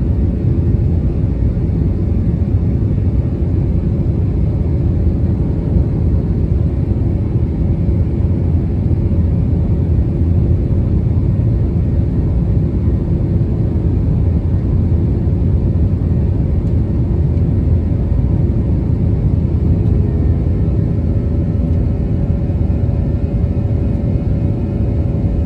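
Airbus A321 jet engines and rushing air making a steady, loud low rumble. A faint steady hum joins near the end.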